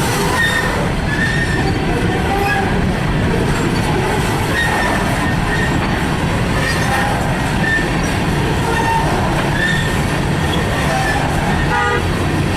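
Freight train cars rolling past at close range, a steady loud rumble with short, high wheel squeals recurring every second or two.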